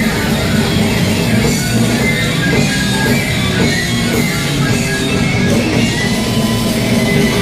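Live heavy metal band playing loud and continuous, with distorted electric guitars, bass and drums.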